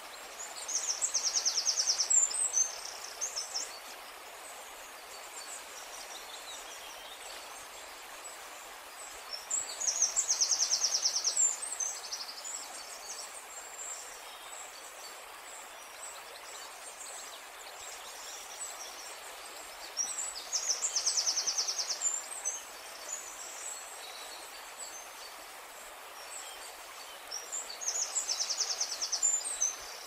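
A bird calling a rapid high trill followed by a few chirps, repeated four times about every ten seconds, over a steady outdoor hiss.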